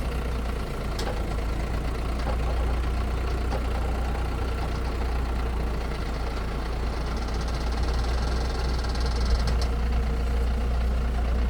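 An engine idling steadily, a constant low rumble.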